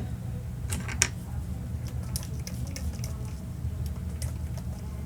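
Small sharp clicks and light hissy ticks of crafting work at a table, two louder clicks about a second in, over a steady low hum.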